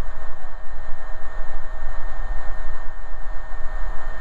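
Steady in-flight cabin noise of an AgustaWestland AW119 Koala helicopter, heard through the cockpit intercom: a low drone under an even hiss, with a steady turbine whine.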